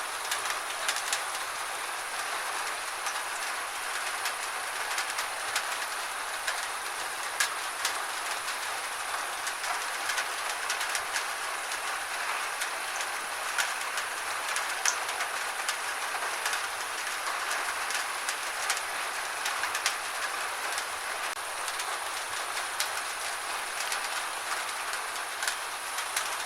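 Gentle rain falling steadily: an even hiss with many small, sharp drop ticks scattered through it.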